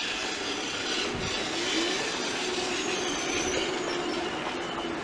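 DB Class 403 Lufthansa Airport Express electric multiple unit rolling past on the station tracks: steady wheel and running noise with a faint whine over it.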